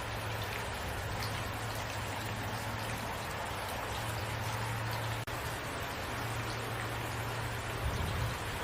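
Steady rain, a dense even hiss of drops falling on a surface, with a low rumble underneath that comes and goes. There is a very brief dip in loudness about five seconds in.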